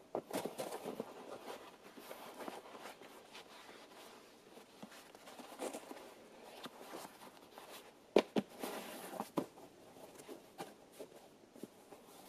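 Faint scattered rustling and shuffling with small clicks, with a couple of sharp knocks about eight seconds in.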